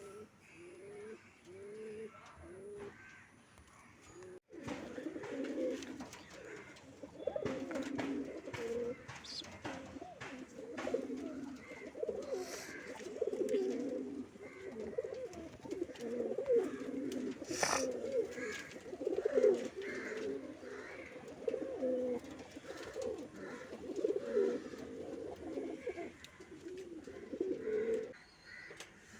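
Domestic fancy pigeons cooing in their lofts: a few separate low coos, then, after a sudden break, many birds cooing over one another with a few sharp clicks, until the chorus stops shortly before the end.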